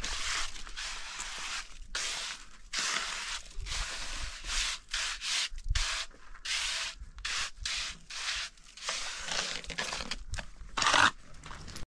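Irregular rough scraping and rubbing strokes, one or two a second, with the loudest stroke near the end.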